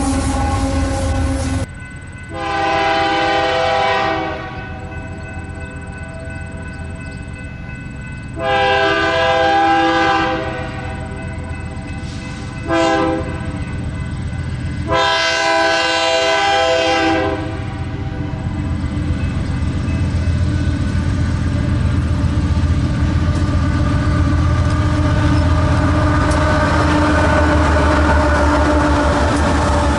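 Locomotive air horn, several tones at once, sounding the grade-crossing signal: two long blasts, a short one and a final long one. After it the train's engines and wheels rumble steadily, growing louder as the train comes closer.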